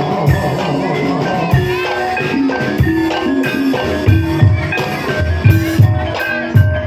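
Live gamelan music for an ebeg horse dance: tuned percussion repeats short melodic notes over hand-drum beats, with several heavier drum strokes near the end.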